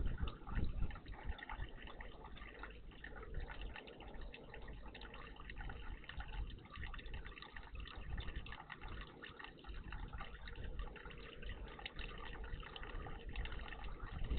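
Water in a garden bird bath trickling and splashing in small, constant flicks, over a low rumble that swells near the end.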